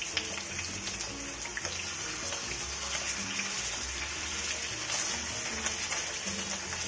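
Pork steaks frying in hot oil in a non-stick pan, a steady sizzle, with background music underneath.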